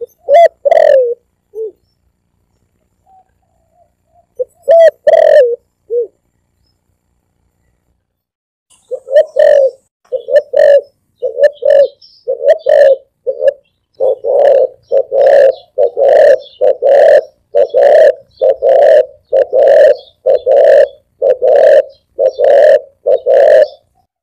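Spotted dove cooing loudly: a few short coo phrases, then from about nine seconds a long, steady run of paired coos, roughly one a second.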